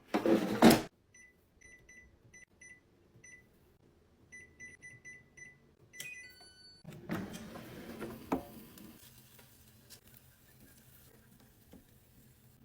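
Air fryer control panel beeping with each button press, about a dozen short high beeps at uneven intervals, as the temperature and time are set. A quick falling run of tones follows, and then a faint steady hum as the unit starts running. A loud, brief noise comes just before the beeps.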